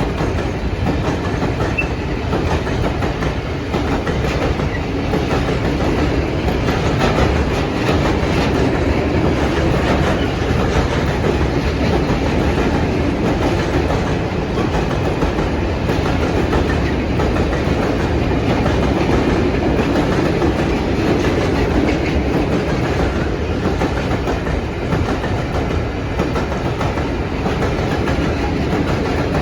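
A train rolling steadily past, its wagon wheels clicking over the rail joints in a continuous rumble.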